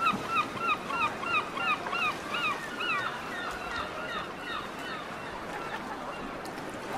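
A bird calling a rapid series of about a dozen short honking calls, roughly three a second, loudest over the first three seconds and then trailing off, over a steady background hiss.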